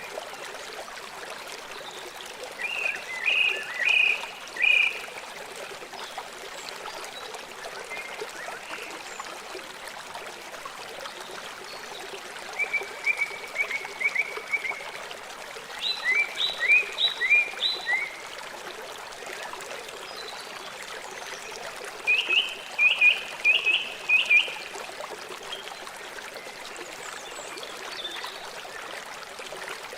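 River water flowing steadily, with a small animal chirping four times, each time a quick run of short repeated notes.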